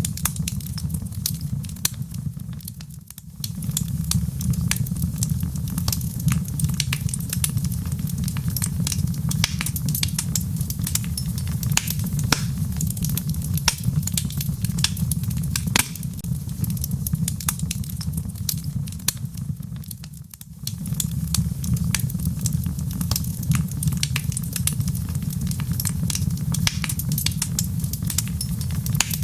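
Wood fire burning in a fireplace: logs crackling and popping irregularly over a steady low rushing roar. The roar briefly fades and returns twice, about three seconds in and again about twenty seconds in.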